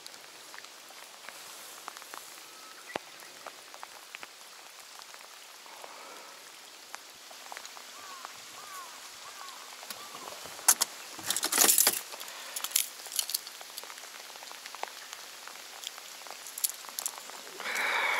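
Steady rain falling on the reservoir surface and the boat, with scattered sharp drop ticks. About eleven seconds in there is a brief, louder clatter.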